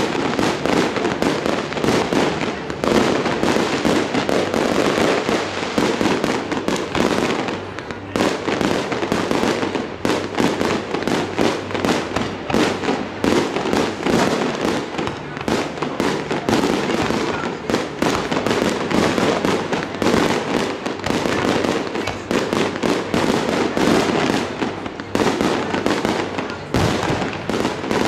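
Aerial fireworks in a professional display, bursting in a dense, continuous barrage: many bangs and crackles a second, with no real pause.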